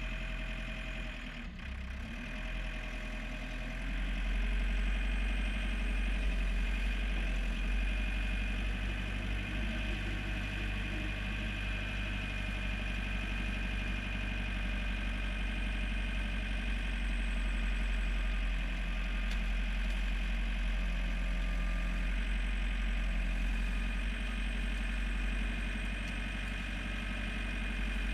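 John Deere 4720 tractor's diesel engine running steadily, with a steady high whine over the low engine hum. It drops out briefly about a second and a half in, and the level rises slightly about four seconds in.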